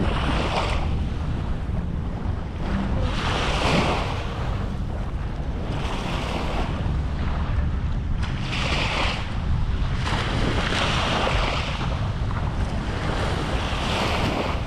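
Small sea waves breaking and washing up the sand, surging every two to three seconds, over a steady low rumble of wind on the microphone.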